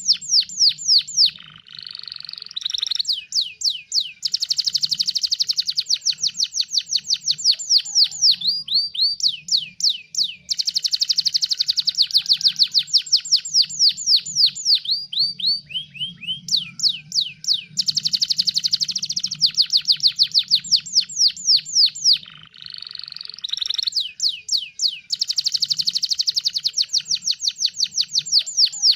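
Canary singing in vigorous song: long, rapid trills of repeated downward-sweeping notes in phrases several seconds long, broken by short pauses and a couple of lower buzzy rolls.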